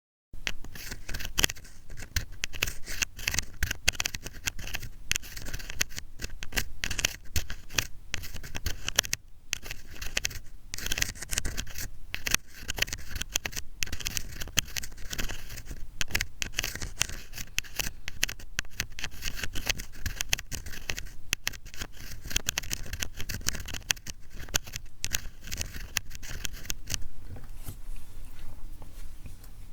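ASMR ear cleaning: an ear pick scraping and scratching rapidly and closely against a microphone in a dense run of small scratchy strokes. The strokes grow softer and sparser near the end.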